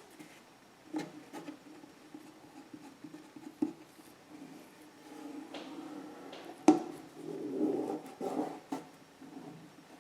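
Hands handling cut paper pieces on a work table: a few scattered light taps, the sharpest about two-thirds of the way through, with scratching and rustling between.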